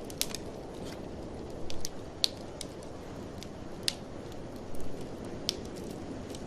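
Wood fire in a fireplace crackling, with sharp pops every second or so, over a steady low rush of blizzard wind.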